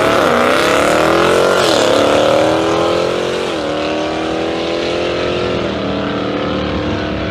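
An SUV and a sports car accelerating hard side by side. Their engines climb in pitch and drop sharply at gear changes, three times, and grow slightly quieter as they pull away.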